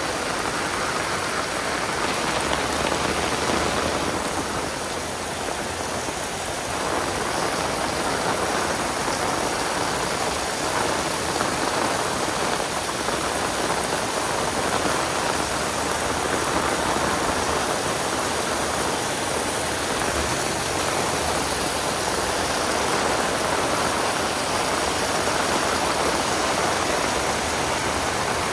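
Heavy rain pouring down steadily, a dense even hiss of rain on surfaces that eases slightly for a few seconds near the start.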